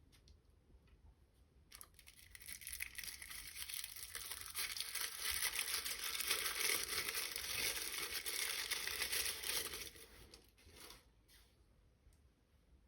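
A packaging wrapper being torn open and crinkled by hand: a continuous crinkling and tearing for about eight seconds that stops abruptly, followed by a few light rustles and clicks.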